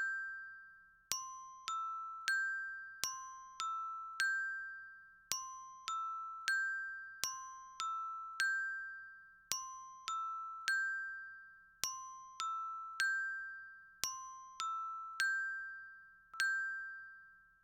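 Bell-like mallet chime, like a glockenspiel, playing a slow repeating figure on three notes. Each note is struck singly, roughly two a second, and rings out before fading.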